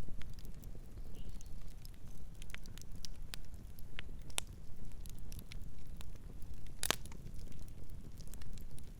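Campfire crackling: irregular sharp pops and snaps of burning wood over a low steady rumble, with one louder pop about seven seconds in.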